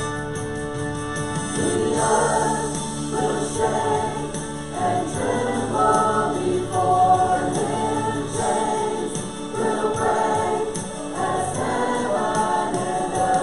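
Group of voices singing a gospel hymn together with instrumental accompaniment; a held instrumental chord opens, and the voices come in about two seconds in.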